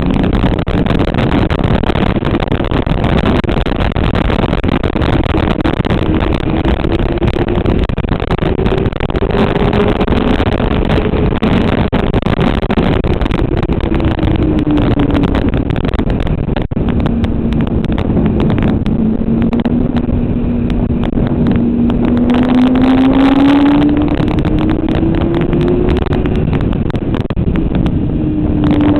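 Motorcycle engine running hard, its pitch slowly falling and rising again as the revs change, over a loud steady rush of noise.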